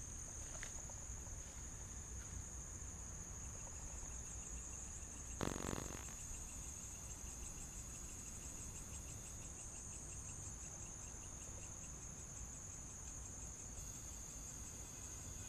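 Crickets trilling in one steady high-pitched note, with fainter, rapidly pulsing insect calls beneath. About five seconds in, a brief noise lasting about half a second stands out as the loudest sound.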